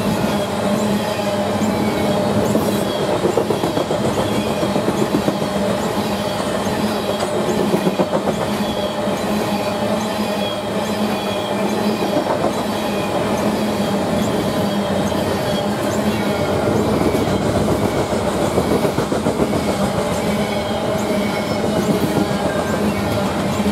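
Railroad cars rolling past steadily, wheels clattering on the rail, with many short high squeals of wheels against the rail throughout.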